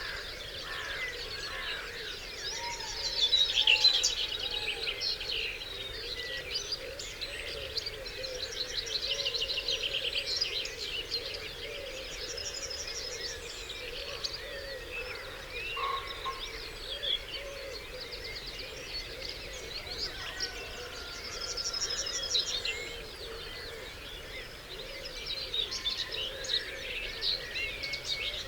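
Dawn chorus of many songbirds singing over one another: fast trilled phrases, warbles and chirps, with a lower call repeated steadily underneath. The loudest song comes about three to four seconds in.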